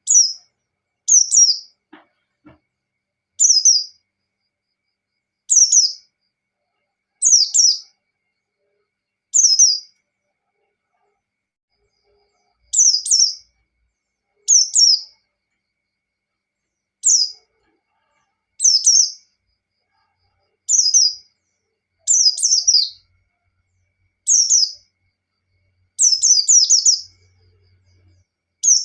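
Pleci (white-eye) singing in the 'ngalas' style: short, high, falling twittering phrases repeated about every one and a half to two seconds, with a longer pause about a third of the way through and a longer run of phrases near the end.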